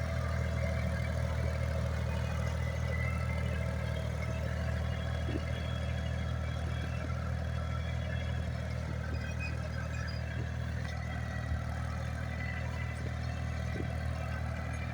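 International 45 hp tractor's engine running steadily while pulling a plough, with a low, even drone and a few faint clicks.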